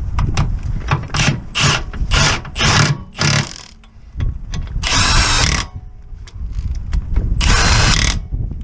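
A power tool run in a series of short bursts, then in two longer runs of under a second each, about five and seven and a half seconds in.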